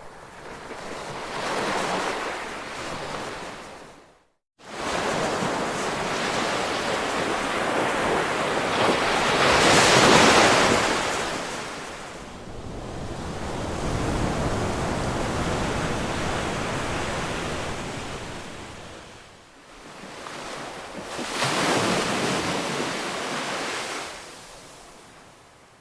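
Ocean waves washing in, in slow rising and falling surges of surf. The biggest wave comes about ten seconds in. The sound cuts out for a split second about four seconds in.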